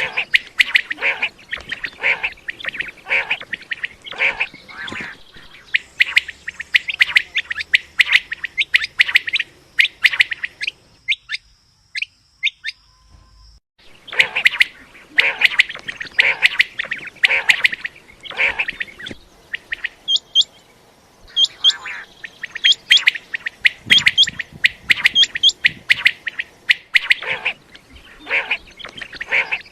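Common quail calling: many short, sharp notes in fast runs, with a pause of a few seconds around the middle.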